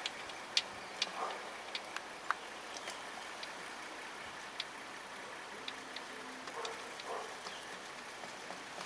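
Scattered light metallic clicks and taps, at irregular intervals, as a starter-motor mounting bolt and the starter are handled and the bolt is started by hand, over a faint steady hiss.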